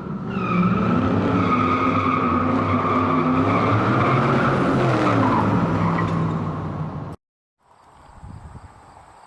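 Car engine revving with its pitch rising and falling, along with tyre squeal. It cuts off suddenly about seven seconds in, leaving only a faint background.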